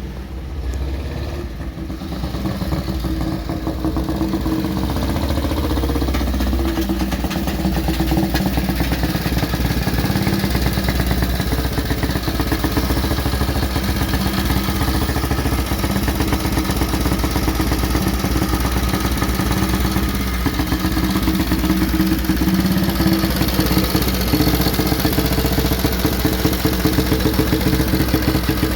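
Vintage Benelli 175 motorcycle engine running at idle, a fast steady beat of firing strokes that builds in level over the first few seconds and then holds.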